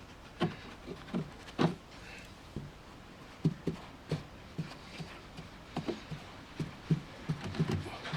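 Soft, irregular taps and dabs as PVA-soaked toilet paper is pressed and pushed onto foam scenery to form rock texture, about one to three light knocks a second.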